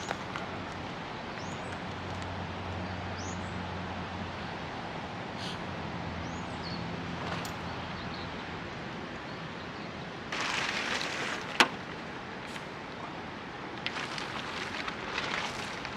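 Camp gear being handled during tarp setup: rustling in two spells, with one sharp click between them. Faint bird chirps sound over a steady outdoor background.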